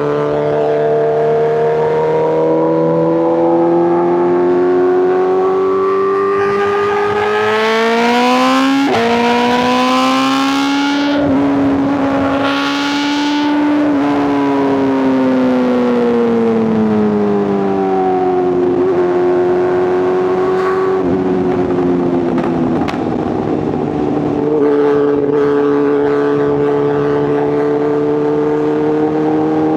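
Inline-four superbike engine and exhaust heard from the rider's seat. It revs up hard with a sudden upshift about nine seconds in and keeps pulling, then rolls off with the revs falling, and settles into a steady cruise near the end.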